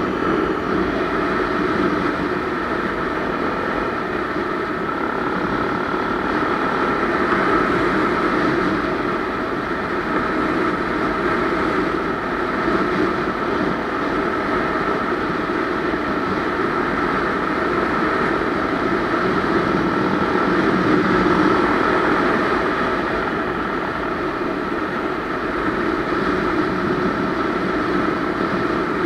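Honda Tornado 250 motorcycle's single-cylinder four-stroke engine running steadily, its level swelling and easing only slightly.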